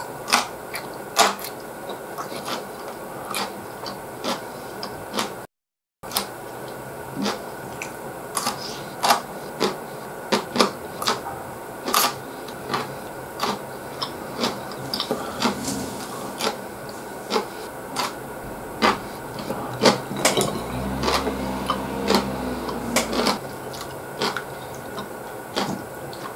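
Close-miked chewing with frequent wet mouth clicks and smacks as food is eaten, cut short twice by edits. A low hum rises for about two seconds past the middle.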